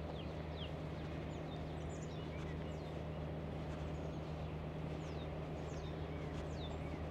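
Outdoor ambience: small birds give short, downward-sliding chirps at irregular intervals over a steady low hum.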